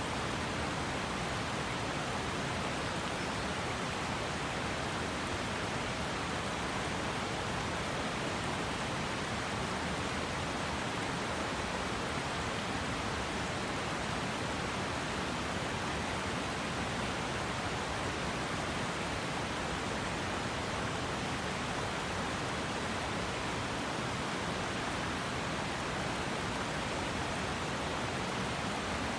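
River water rushing and babbling over rocks in a steady, unbroken wash.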